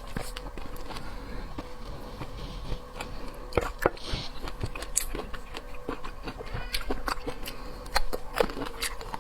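Close-up eating sounds: irregular sharp clicks and smacks of chewing and handling seafood, over a faint steady hum.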